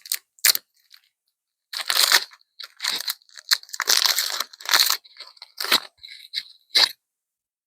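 Crinkling and tearing of a foil booster-pack wrapper being opened and handled, in irregular rustling bursts that are busiest in the middle.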